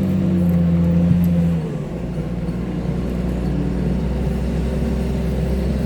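Vehicle engine running steadily while driving, a low drone that drops to a lower pitch about two seconds in and then holds.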